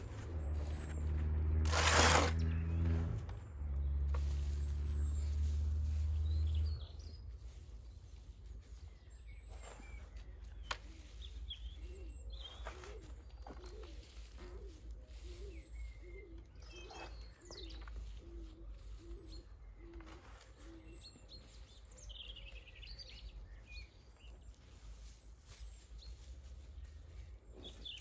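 Garden birds chirping, with one bird repeating a low note about every half second in the middle. A loud low steady hum is the strongest sound for the first seven seconds or so, then stops.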